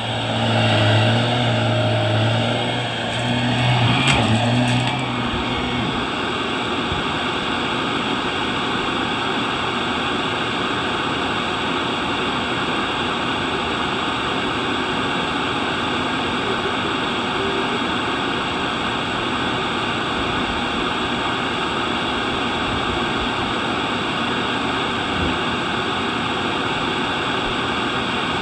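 Vacuum cleaner running steadily, with a louder, lower hum in the first few seconds that then settles into an even whooshing drone.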